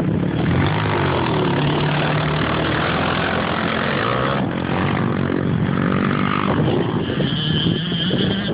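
Dirt bike engine running, its pitch rising and falling several times as it is revved and eased off.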